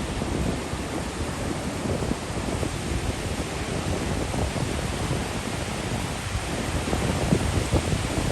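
Wind buffeting the microphone in uneven gusts over a steady rushing noise of ocean surf.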